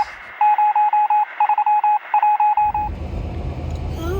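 A quick run of short electronic beeps at one steady pitch, in groups like telephone keypad tones. About two and a half seconds in, a low steady vehicle engine rumble starts, and the beeps stop soon after.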